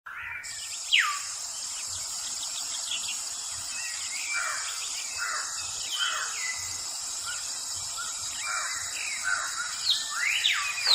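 Birds calling outdoors: many short chirps and sweeping whistled notes, with a loud falling call about a second in, over a steady high-pitched hiss.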